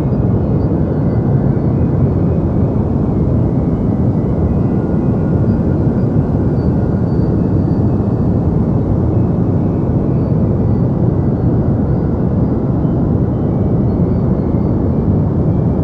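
Steady, deep synthetic noise for sleep, a smooth rumble with most of its weight in the low end and little hiss. It is even throughout, with no changes or events.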